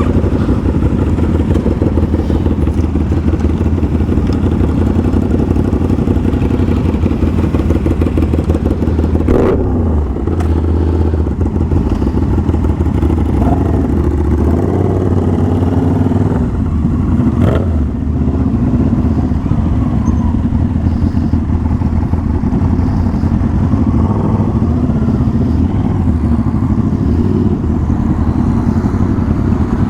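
Sport motorcycle engines running as a group rides off on the road, a steady low rumble throughout. Two brief sharp sounds come about 9 and 17 seconds in.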